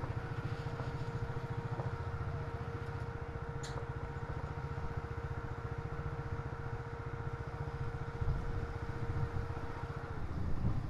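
Motorcycle engine running at a steady pace while riding, with a faint steady whine that stops about ten seconds in and a short click about four seconds in.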